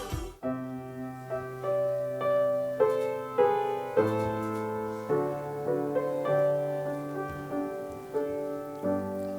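Solo piano playing a slow passage of struck chords over held bass notes, each note ringing on as the next is played.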